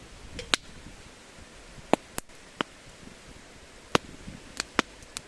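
Campfire wood crackling: about eight sharp, irregular pops over a quiet background.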